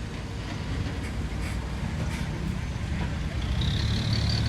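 Heavy diesel earthmoving machinery running steadily, a low engine drone that grows a little louder. A steady high whine comes in near the end.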